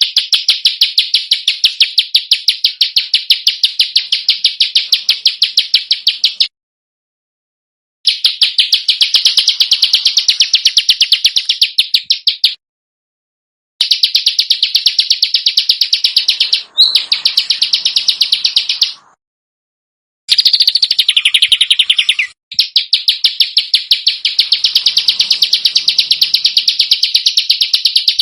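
A small songbird's harsh, closely packed chirps, rapidly repeated in runs of several seconds and broken by short silences.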